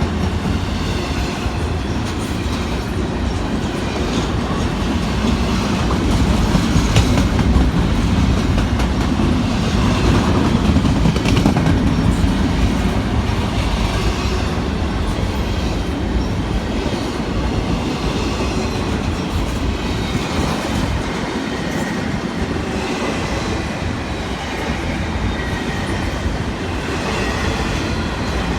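Freight cars of a Norfolk Southern manifest train rolling past, the steel wheels clattering steadily over the rails.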